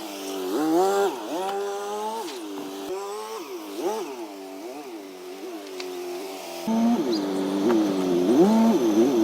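An engine revving up and down again and again in quick swoops. There is a cut about two-thirds of the way in, after which the revs rise and fall faster.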